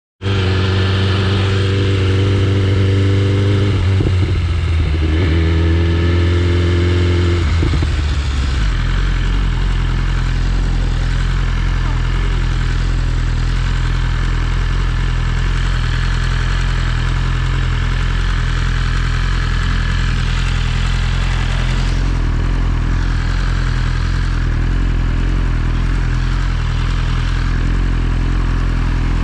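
BMW S1000RR's inline-four engine running at a raised idle for about eight seconds, dipping briefly in pitch once, then dropping to a lower, steady idle.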